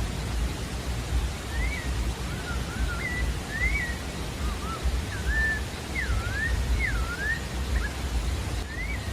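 Pale-breasted thrush (sabiá-da-várzea) singing: a phrase of short, clear whistled notes that rise and fall, starting about a second and a half in and going on to near the end. Under it runs a steady low rumble and hiss of outdoor background noise.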